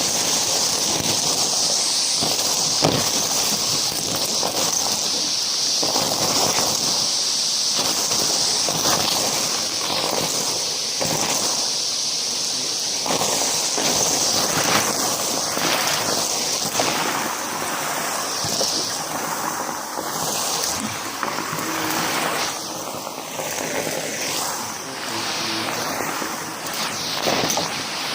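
Numatic James canister vacuum cleaner running steadily with a high whine, sucking up crunchy debris that rattles and clicks through the hose. The airflow tone sweeps up and down as the floor tool moves over the mess.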